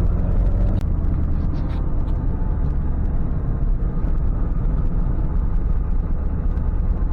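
Ford F550 tow truck driving, a steady low rumble of engine and road noise.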